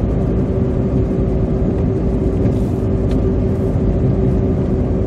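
Steady in-cabin noise of a car driving at highway speed on a wet, slushy road: engine and tyre rumble with a steady hum.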